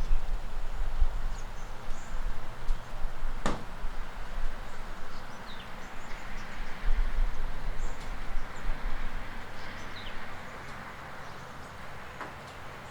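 Steady rain falling, an even hiss with a low rumble beneath it. It is broken by one sharp tap about three and a half seconds in and a few short, high bird chirps.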